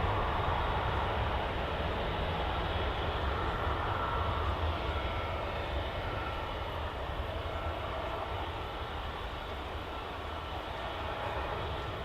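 Jet airliner engine noise: a steady rumbling roar that slowly fades.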